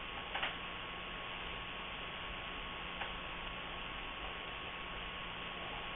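Dead air from a weather radio broadcast: a steady hiss with a low mains-like hum and a faint thin tone, broken by a couple of small clicks. This is the failed severe thunderstorm warning, with no 1050 Hz alert tone and no voice.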